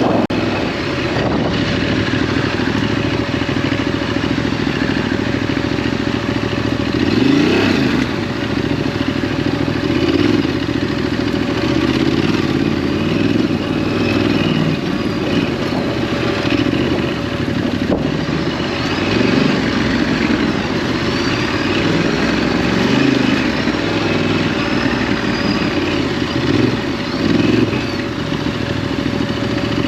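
Ducati DesertX's 937 cc twin-cylinder engine running on a dirt-track ride, its revs rising and falling with the throttle, with a clear climb in revs about seven seconds in.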